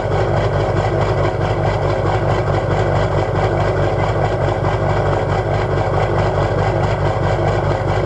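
Duramax LB7 6.6-litre V8 turbodiesel idling cold with a lopey, uneven idle.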